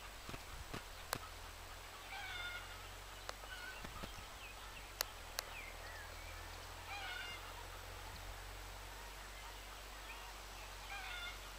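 A bird calling three times, about every four seconds, each a short call with several stacked overtones, over a low steady rumble. A few sharp clicks, the loudest about five seconds in.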